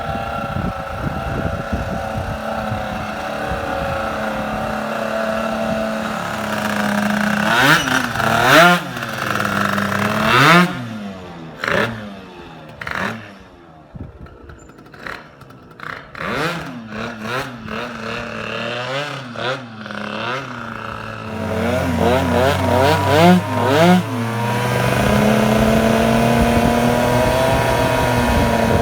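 Tuned 70 cc two-stroke scooter engine with a Stage6 MK2 racing cylinder kit. It runs steadily, then is given a run of sharp throttle blips, drops back with its pitch falling for several seconds, and revs up again to a high, held note near the end.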